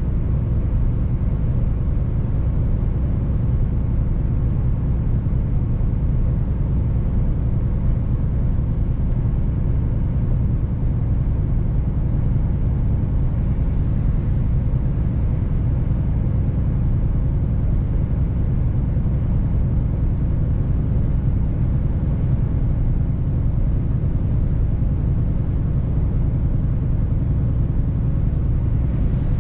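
Mercedes-Benz truck on the move: a steady, low engine drone with road noise, holding an even pace throughout.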